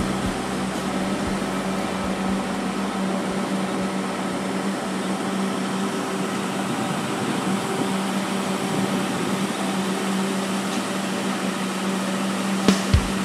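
Steady drone of harvest machinery running, with a constant low hum. A couple of sharp knocks come near the end.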